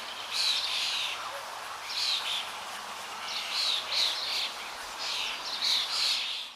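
Birds calling in four bouts of rapid chirps, each about a second long, over a steady background hiss.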